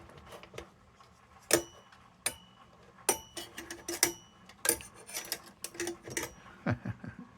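Metal lantern parts clicking and clinking as they are fitted together by hand. Irregular sharp metallic clicks, some with a brief ring, come every half second or so; the loudest is about a second and a half in.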